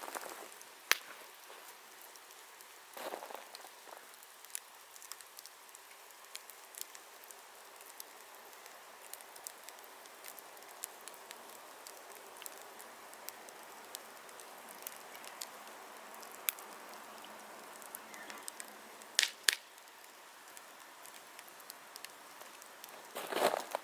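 Wood fire crackling: scattered sharp pops and ticks over a steady faint hiss of burning, with a few louder bursts about three seconds in, near nineteen seconds and just before the end.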